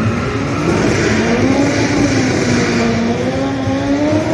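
Car engines revving up and down, their pitch rising and falling over a steady hiss.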